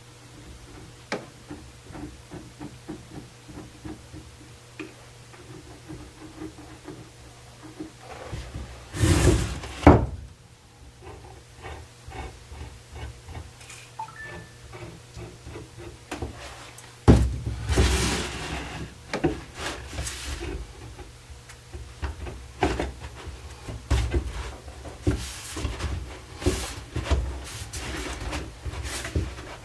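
Knocks, taps and rubbing from wooden chair parts and tools being handled during a glue-up, with longer, louder stretches of scraping and handling about nine seconds in and again from about seventeen seconds. A faint steady hum runs underneath.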